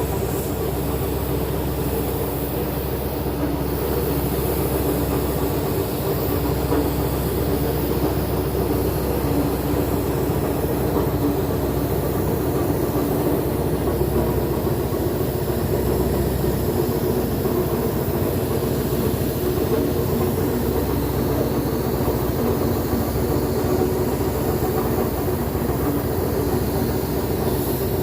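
A machine running steadily, a constant mechanical drone with a low hum that does not change.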